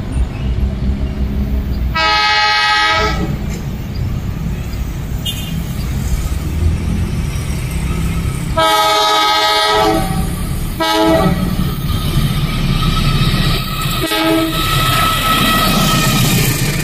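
Train horn sounding in several blasts, the longest about a second, about two seconds in and around nine seconds in, with shorter toots near eleven and fourteen seconds, over the steady rumble of a train running on the rails.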